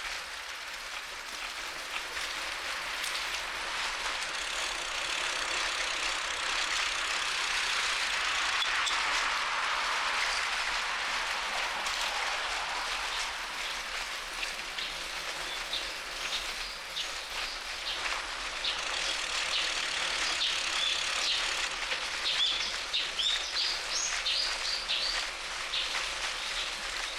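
Steady rushing of a bicycle ride, tyre and wind noise on the camera, swelling for a few seconds in the first half. In the second half many short, high bird chirps come in repeatedly.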